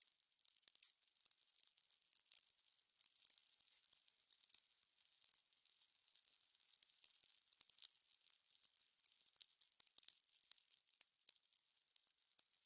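Fire crackling: a soft hiss with irregular sharp pops and snaps throughout, all thin and high with no low rumble.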